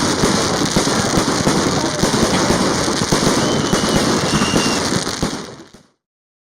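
Fireworks display, a dense run of crackling and popping bursts that fades out about five and a half seconds in.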